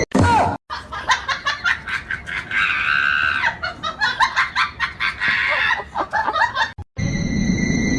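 Quick bursts of high-pitched laughing and squealing, with one longer held squeal about three seconds in.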